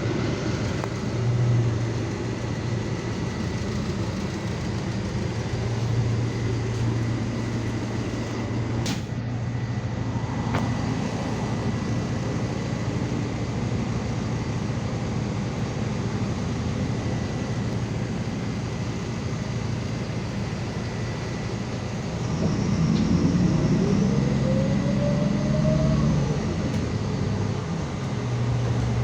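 MAZ 216 articulated city bus running, with a steady low engine hum. About 22 s in it grows louder while a whine rises in pitch as the bus accelerates, then the whine drops back near 26 s.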